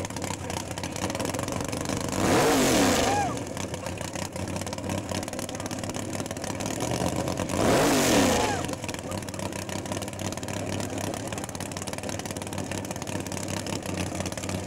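Stroked 496-cubic-inch Chevrolet big-block V8 of a MK1 Cortina drag car idling, with two sharp blips of the throttle about five seconds apart, each rising in pitch and dropping back to idle.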